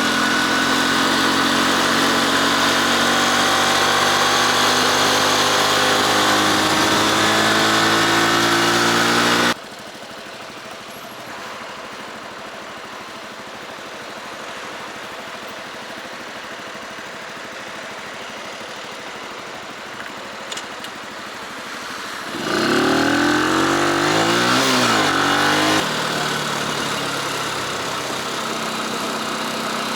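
Motorcycle engine running steadily and loud for the first nine or so seconds, then dropping suddenly to a quieter running sound. A little over twenty seconds in, the engine sound swells for about three seconds, its pitch sweeping down and back up, then eases off.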